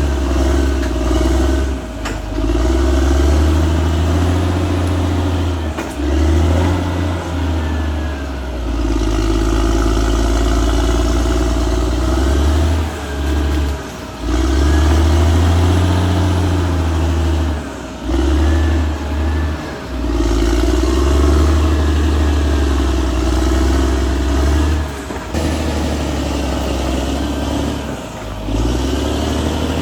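Caterpillar D6R XL bulldozer's six-cylinder diesel working under load. It rises and eases every few seconds as the machine pushes and backs off, with brief dips between pushes. A thin squeal rises and falls over it at times.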